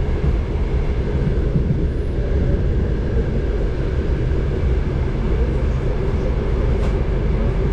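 Steady rumble of a moving passenger railway car on the track, heard from inside the car, with the train drawn by a 2TE10U diesel locomotive.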